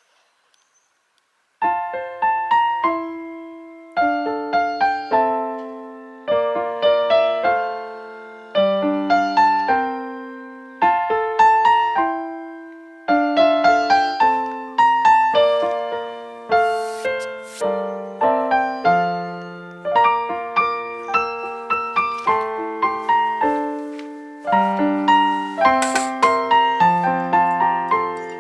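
Background music: a solo piano melody of struck notes that ring and fade, starting after a second and a half of silence.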